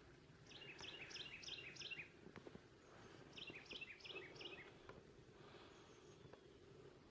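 Faint songbird song: two runs of about five quick down-slurred whistled notes, one about half a second in and another around three and a half seconds in, over a faint steady low background hum.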